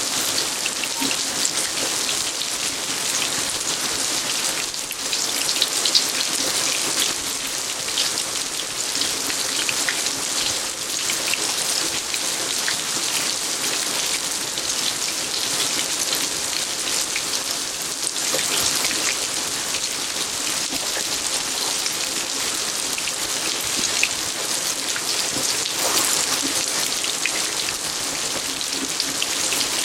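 Steady rain falling on hard surfaces, a dense hiss of many individual drops ticking close by.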